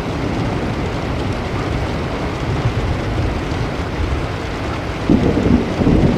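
Steady heavy rain with thunder; a louder roll of thunder breaks in about five seconds in.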